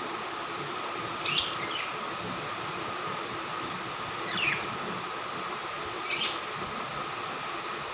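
Budgerigar giving a few short chirps a couple of seconds apart, each falling in pitch, over a steady hum.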